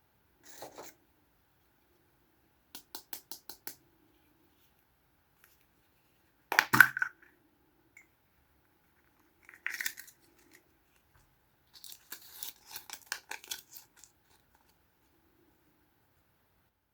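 Small Kinder Surprise plastic toys and their packaging being handled: quick runs of light plastic clicks and taps, broken by a sharp crackling tear about a third of the way in and a softer crackle a few seconds later.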